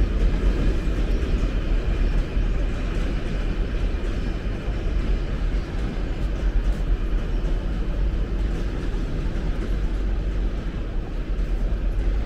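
Steady rumbling running noise of a long-distance passenger train in motion.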